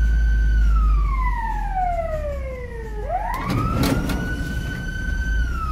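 Fire engine siren wailing in slow cycles. The tone holds high, then glides down for a couple of seconds, climbs back up about three seconds in and holds again, over a steady low rumble. There is a brief burst of noise around the second rise.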